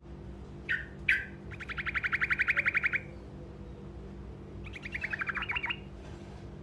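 Truco songbird singing its short roll: two sharp single notes, then a fast rolling trill of about a dozen notes a second lasting a second and a half, and a second, falling roll near the end.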